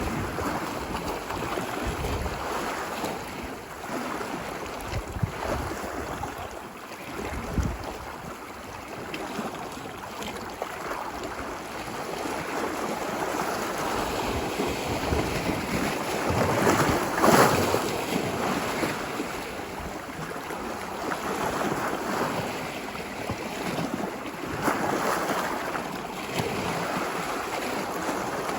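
Ocean waves washing ashore on a beach, a steady wash that swells and ebbs, with the largest wave breaking about two-thirds of the way through. Low rumbling from wind on the microphone.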